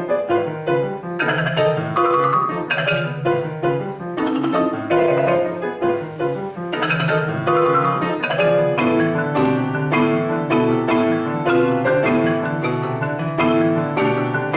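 Marimba playing fast runs of struck notes over a sustained low accompaniment.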